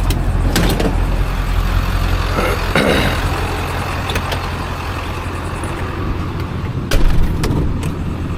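A vehicle engine running steadily at low pitch, with several sharp knocks and clanks over it, the loudest about seven seconds in.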